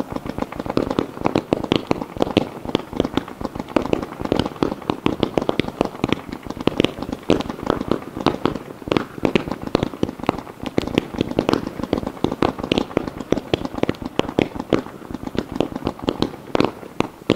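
Fireworks fired in rapid succession: a dense, continuous volley of sharp pops and bangs, many each second, as small aerial shells burst while a ground fountain sprays sparks.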